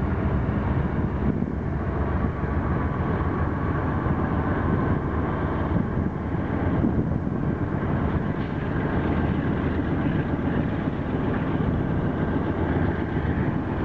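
Freight train passing close by: a steady rumble and rolling noise from the rail cars.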